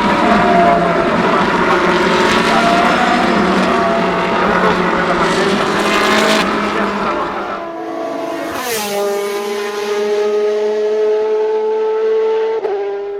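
Ferrari 458 Challenge EVO race cars, with naturally aspirated V8 engines, racing past at full throttle, several engine notes at once. About eight seconds in, one car sweeps by with a falling pitch, then its engine note climbs steadily as it pulls away, dropping sharply once near the end at an upshift.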